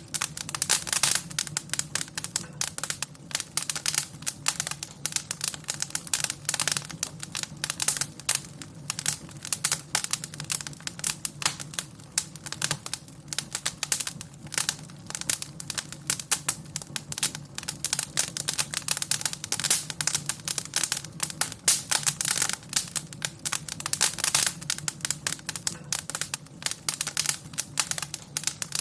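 Wood fire crackling and popping in a fireplace: dense, irregular sharp crackles over a low steady hum.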